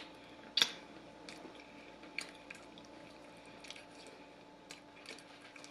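Close-up mouth sounds of someone chewing grilled barbecue chicken: scattered soft wet smacks and clicks, the sharpest about half a second in, over a faint steady hum.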